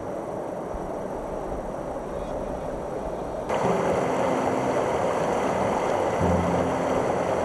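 Steady rush of water from shallow rapids. About three and a half seconds in it cuts to a louder, steady rush of water and wind.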